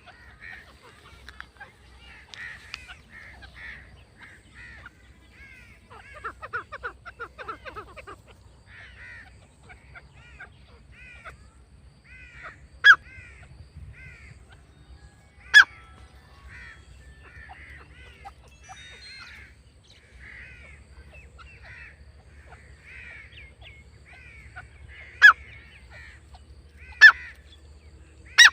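Grey francolin calls: many short call notes repeated in quick series, a few of them much louder and sharper, with a stretch of denser chattering about six seconds in.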